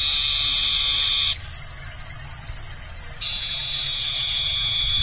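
Sirtu bird singing: two long, harsh buzzing trills, high-pitched, the first stopping about a second in and the second starting about three seconds in.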